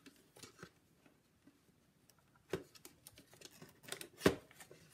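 Paper and craft tools being handled on a work table: a few light taps and knocks, the loudest about four seconds in.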